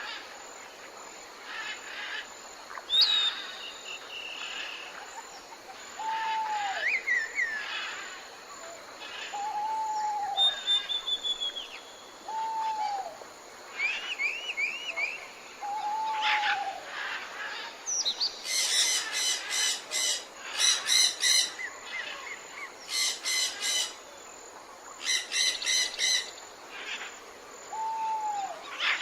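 Several wild birds calling. One gives a low, arched note every few seconds, others add scattered whistles and chirps, and in the second half come four bursts of fast, harsh chattering.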